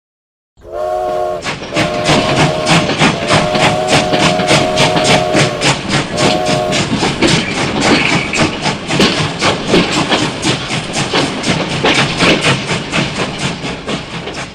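A rapid, regular mechanical chugging, with a whistle- or horn-like tone sounding in several long blasts over the first half, like a train whistle.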